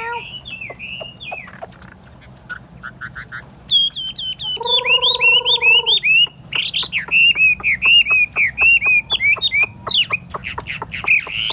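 Chinese hwamei singing: fast runs of loud whistled notes that slur up and down, repeated many times. About halfway through comes one held, nasal-sounding note lasting over a second.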